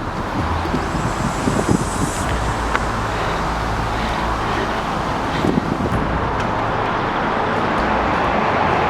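Steady rush of distant freeway traffic, a continuous hum of passing cars and trucks that grows slightly louder near the end.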